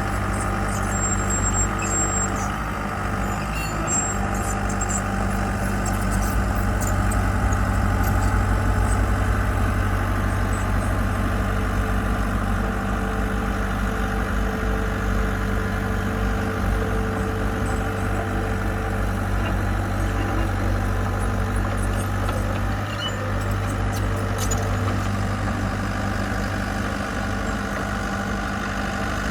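Diesel engine of heavy construction machinery running steadily, with an even, unchanging hum.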